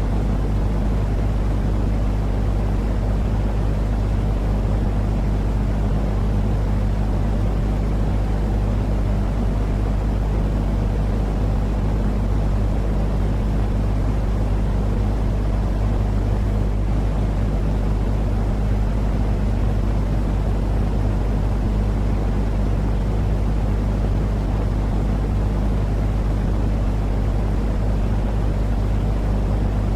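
Steady, unchanging low-pitched rumbling noise with a hum underneath: a continuous soothing noise track played to calm babies and help them sleep.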